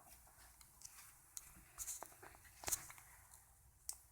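Very quiet room with a few faint, scattered clicks and rustles, the clearest about two-thirds of the way in.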